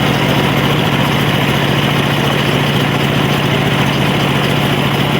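Engine of a homemade circular sawmill running steadily, a loud even drone with a strong low hum and no change in speed.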